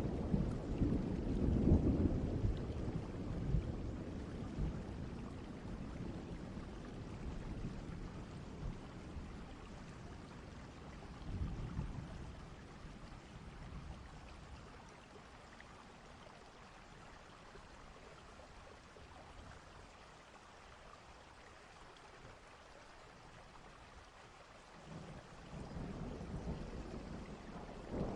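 Distant thunderstorm: low thunder rumbling over a steady hiss of rain. One rumble dies away over the first few seconds, a smaller one comes about twelve seconds in, and a new one builds near the end.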